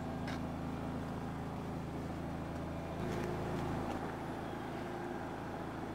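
Steady low hum of an idling car engine, with a slight change in tone about three seconds in and a couple of faint clicks.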